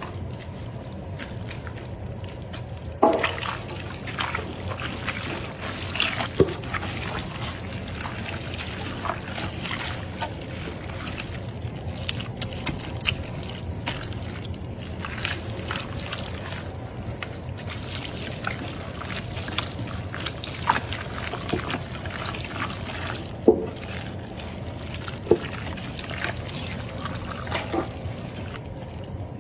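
Liquid pouring and trickling steadily, starting with a knock about three seconds in, with scattered clinks and knocks throughout.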